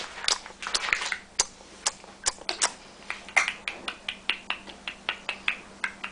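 A baby making funny mouth noises: a run of sharp mouth clicks, about two to three a second, mixed with short squeaky vocal sounds.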